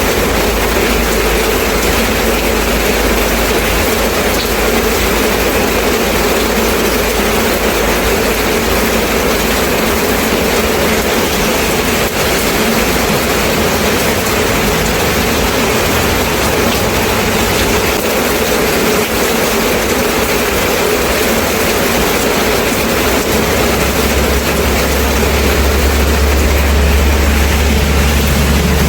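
Steady rain falling, an even hiss with no let-up. A low rumble underneath grows louder about three-quarters of the way through.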